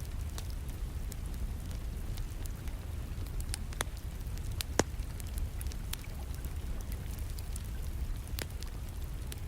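Wood fire crackling in a fireplace, with scattered sharp pops and one louder pop about halfway through, over a steady rain hiss and low rumble.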